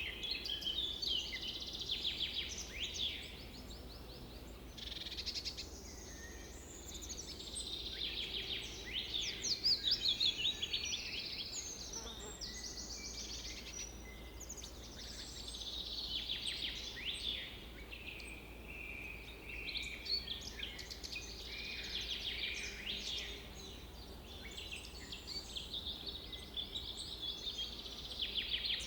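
Several songbirds singing at once, a steady chorus of overlapping chirps and rapid trills, over a faint low background hum.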